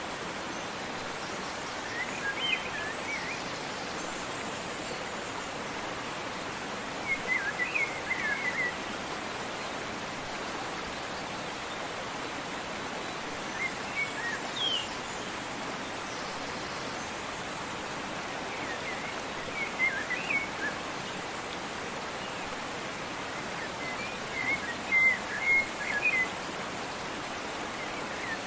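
Steady rushing of a waterfall, with short bouts of songbird chirping breaking in about every five seconds, five times in all, the last the loudest.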